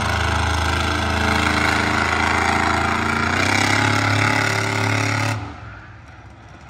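Monster truck engine running loud and steady, its pitch stepping up slightly about three seconds in, then dropping away suddenly about five seconds in to a much quieter background.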